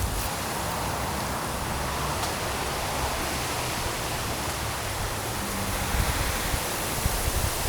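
Strong wind blowing in a steady rush, with low rumbling buffets on the microphone that grow a little toward the end.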